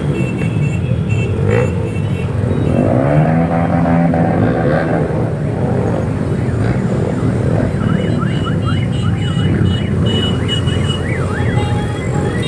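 Motorcycle engines running and revving together in a slow procession, pitch rising and falling as they are throttled. About two thirds of the way in, a fast, repeating rising electronic yelp, like a siren or alarm, sounds over the engines.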